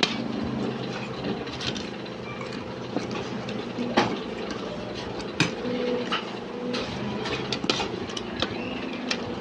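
A few sharp clinks of utensils and dishes, over a steady low mechanical hum.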